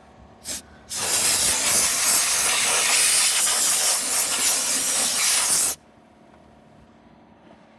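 Degreaser spraying from a nozzle onto an aircraft engine: a short spurt, then a steady hiss of spray for nearly five seconds that cuts off suddenly.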